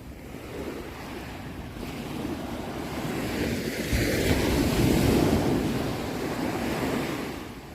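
Ocean surf: a single wave swells up, breaks with a rush about four seconds in, then washes back out and fades near the end.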